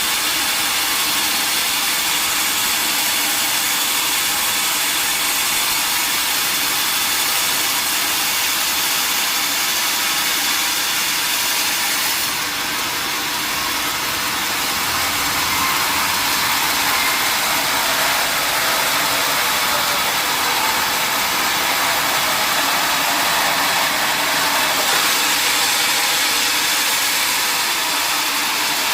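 Sawmill machinery running steadily with a loud, even mechanical drone and hiss. The level dips briefly about twelve seconds in, then the sound slowly swells again.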